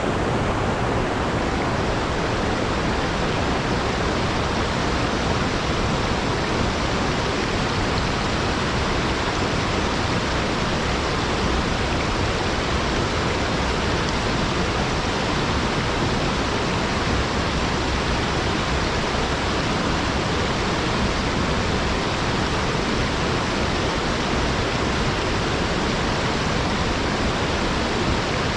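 Small waterfall running down a rock wall, a steady rushing of water with no change.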